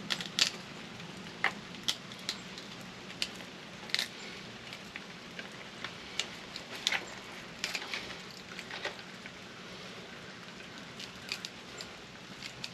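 Irregular light clicks and taps of a small screwdriver and metal parts as a microwave's innards are pried apart, over a faint steady low hum.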